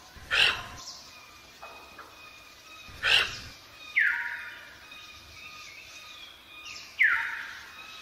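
Bird calls in forest: two sharp whistles that drop quickly in pitch, about three seconds apart, with two short noisy swishes earlier on and faint steady high tones underneath.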